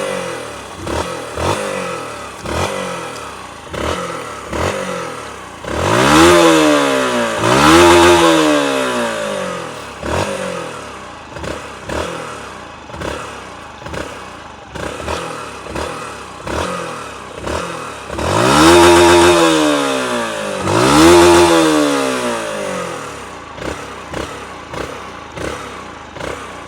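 Yamaha YBR 125's single-cylinder four-stroke engine being blipped about once a second, then revved hard four times, in two pairs, up to its rev limiter at about 10,000 rpm and held there for a moment before dropping back.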